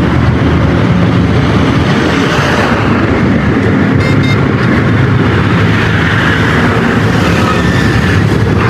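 A heavy engine running steadily at a constant speed, likely the truck's diesel, with a brief high squeak about four seconds in.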